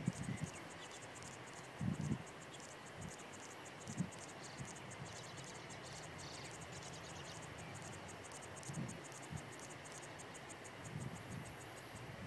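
Insects chirping in a rapid, even, high-pitched pulse that runs on steadily, with a few soft low thumps here and there.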